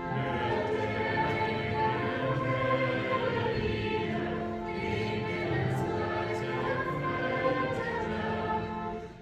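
A choir singing in sustained phrases with organ accompaniment. A phrase ends about nine seconds in, with a short breath before the singing resumes.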